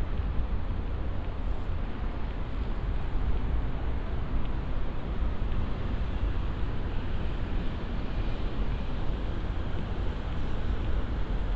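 Steady outdoor city ambience: a continuous low rumble with an even hiss above it, without distinct events.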